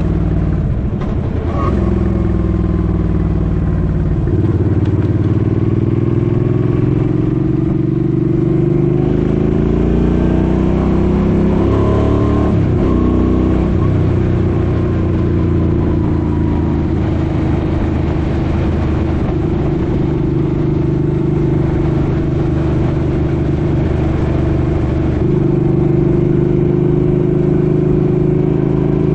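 Suzuki Boulevard M50's V-twin engine under way. Its pitch climbs as it accelerates, breaks at gear changes a few seconds in and again about halfway, then holds steady while cruising.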